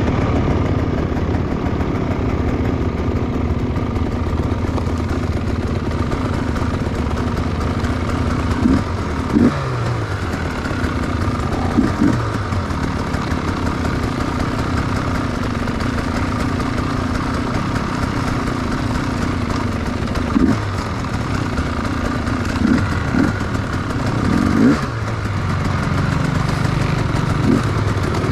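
Enduro motorcycle engine running steadily off-road, with short throttle blips every few seconds where the pitch rises and drops back.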